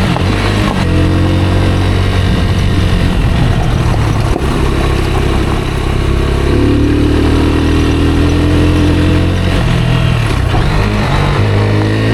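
Rieju Aventura 125 single-cylinder engine running while riding, its revs rising and falling several times.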